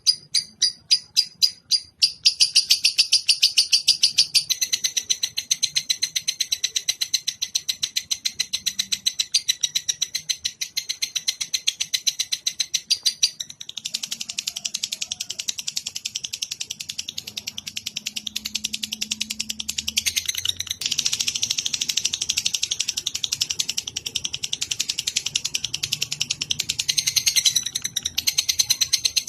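Songbird song played as a masteran (a bird-song training recording): a long unbroken run of rapid, high, evenly repeated chirps, several a second, whose pattern changes every few seconds.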